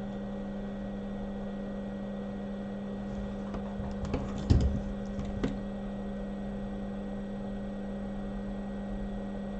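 Steady electrical hum from repair-bench equipment. A few small clicks and a knock come about four and a half seconds in, as tools are handled on the bench.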